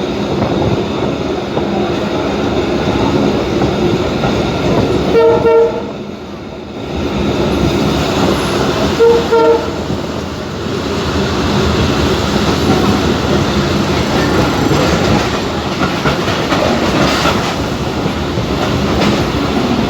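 Moving commuter train heard from inside the carriage: a steady rumble and rattle of wheels on the track, with two short horn blasts about five and nine seconds in.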